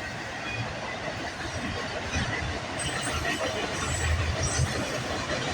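Freight train cars, a mix of manifest cars and autoracks, rolling past with a steady low rumble of wheels on rail.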